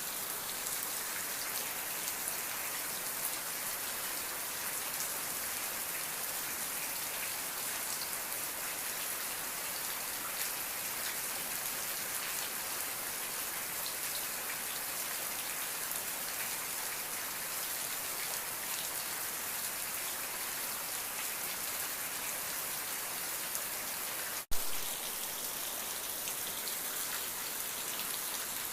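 Steady rain falling, with individual drops heard as fine ticks. Near the end the rain drops out for an instant and a single sharp click sounds, then the rain continues.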